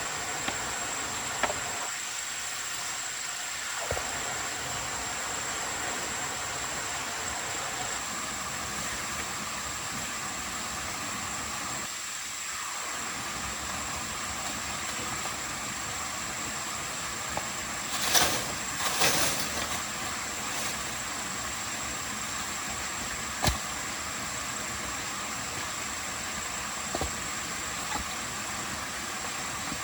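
A steady hiss with a thin, high steady whine, broken by a few sharp clicks and a short cluster of knocks and rattles about eighteen seconds in.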